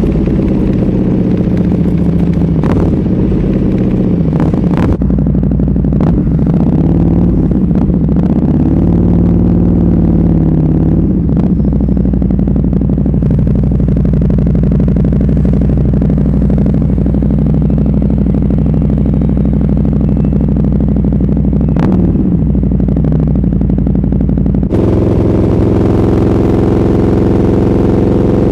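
Motorcycle engine on an SC-Project aftermarket exhaust running loudly, its pitch rising and falling about a third of the way in, with a few sharp clicks. Near the end the engine note changes abruptly.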